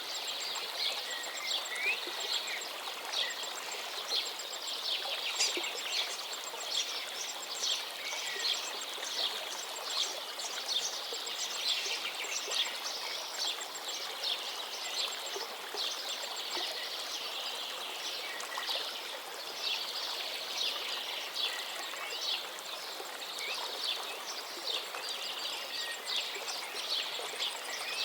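Many small birds chirping and singing in a busy, overlapping chorus over the steady rush of a flowing stream.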